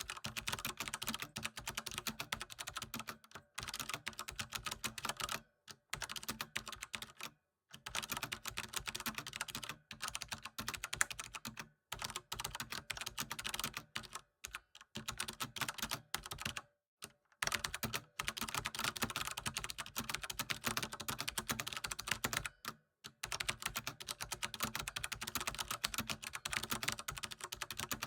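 Typing on a computer keyboard: rapid, continuous keystroke clicks in runs of a few seconds, each run cut by a brief total silence.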